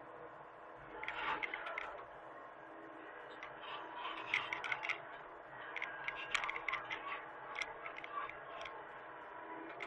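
Hitachi mini excavator engine running steadily, with irregular clicks and scrapes from the machine at work from about a second in.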